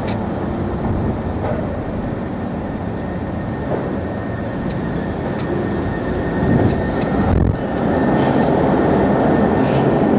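Steady low rumble and noise aboard a cross-Channel car ferry, with a faint steady whine. It grows a little louder near the end.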